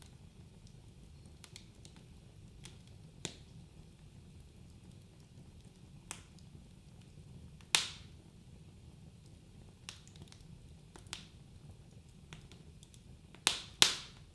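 Wood fire crackling in a fireplace: scattered sharp pops and snaps every second or two over a faint low rumble of the flames, with the loudest pops about eight seconds in and two close together near the end.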